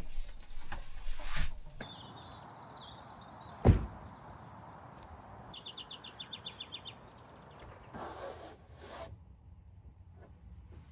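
Small birds singing outdoors: a few chirps, then a rapid trill of about a dozen quick notes, over a faint steady background hiss. A single sharp knock sounds a few seconds in, and a few soft thumps follow later.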